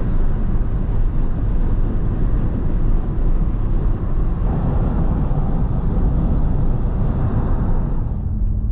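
Car in motion: a loud, steady rushing rumble of road and wind noise.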